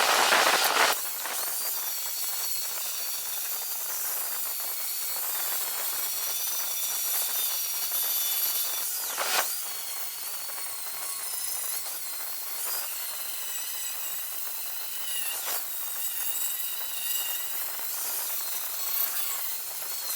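A Bosch 4-1/2-inch angle grinder running at about 11,000 RPM under load, grinding rust and scale off a steel truck frame to bare metal. It makes a steady gritty hiss with a high motor whine that wavers in pitch as the pressure on the disc changes.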